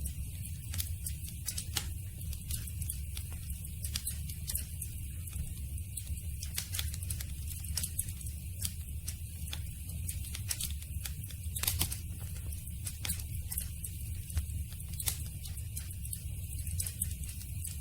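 Campfire burning with irregular sharp wood crackles and pops over a steady low rumble of flames.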